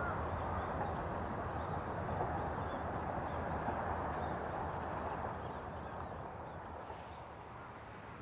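Distant electric train running on the line, a steady low rumble that fades about six seconds in, with faint bird chirps over it.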